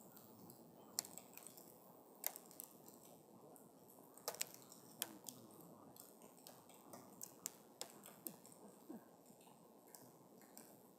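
Wood campfire crackling: irregular pops and snaps, a few sharper ones in the first half, over a soft steady hiss of the burning fire.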